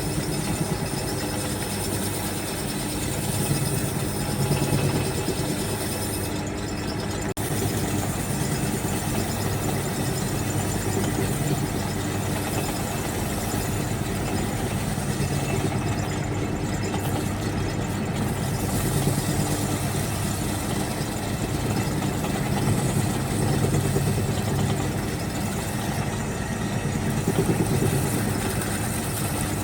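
Wood lathe running steadily, a constant motor hum under an even whirring noise.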